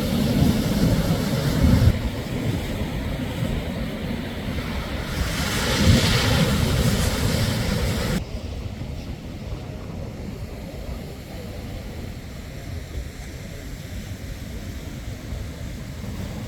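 Shorebreak surf: waves breaking and washing up the beach as a continuous rush. One wave swells up loudly about six seconds in, then the sound drops suddenly about eight seconds in to a softer, steady wash.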